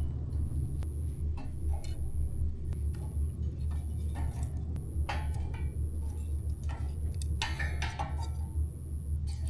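Campfire being lit: scattered small clicks and crackles, with longer rustling scrapes about five and about seven and a half seconds in, over a steady low rumble.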